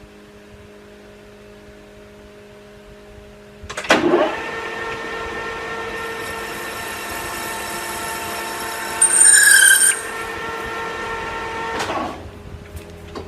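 Metal lathe taking a cut in 1018 cold-rolled steel. The tool starts a steady, high-pitched whine about four seconds in, gives a sharper, louder squeal near the ninth second, and stops suddenly about eight seconds after starting.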